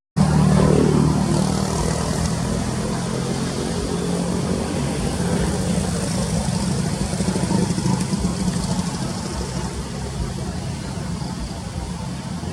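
Motorbike engine running steadily, its pitch falling during the first second and then holding even.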